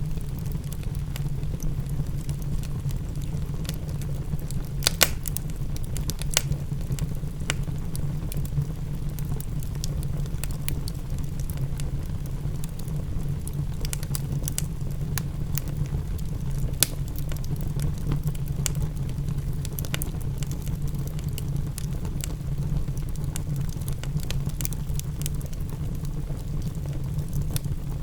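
Wood fire crackling, with irregular sharp pops, a few of them louder, over a steady low rumble and a soft patter of rain.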